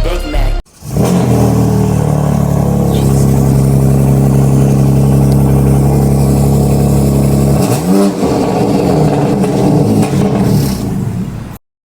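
BMW M3 engine cold-started, running at a steady fast idle, then blipped once about eight seconds in, rising and falling back to a rougher idle before the sound cuts off near the end.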